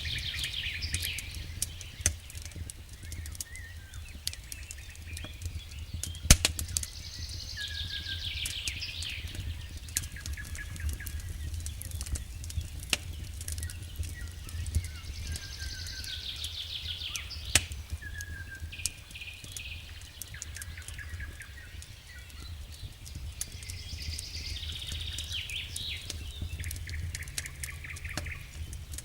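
Wood fire crackling in a fireplace, with scattered sharp pops over a low steady rumble. A songbird sings a trilled phrase four times, roughly every eight seconds.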